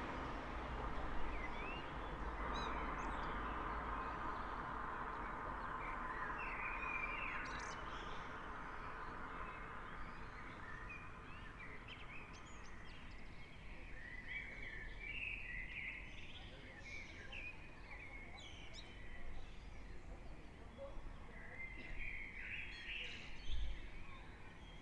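Several songbirds chirping and trilling in quick short phrases, busier in the second half. Under them is a steady hum of distant traffic that fades out over the first ten seconds or so.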